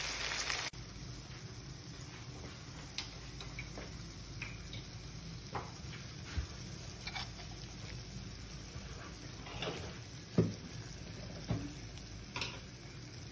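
Okra curry sizzling in the pan for a moment, cutting off abruptly. Then a faint low hum with a few scattered small clicks and knocks.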